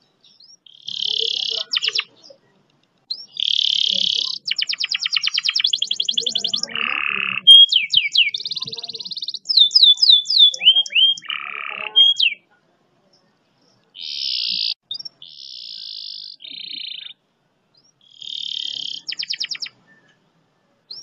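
Canary singing a fast rolling song: rapid trills and sweeping whistled notes in phrases of a second or two, with short pauses in the second half.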